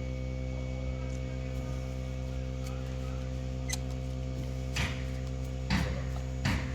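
Steady electrical mains hum, with three short scratchy scrapes in the last two seconds from small hand work on carburetor parts, such as a small drill bit rubbing out a jet hole.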